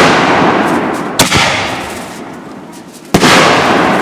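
Consumer firework mortar shells bursting. It opens on the fading tail of a bang, then there is a sharp crack about a second in and another loud bang about three seconds in, each followed by a long tail that dies away.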